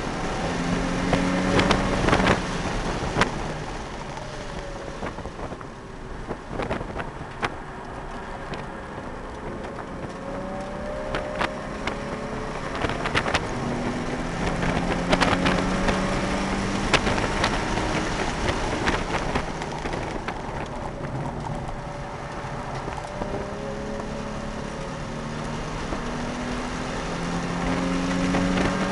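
Nissan 350Z's 3.5-litre V6 heard from inside the cabin on track, its pitch rising again and again as it pulls through the gears, over a steady rush of tyre and wind noise, with occasional sharp knocks.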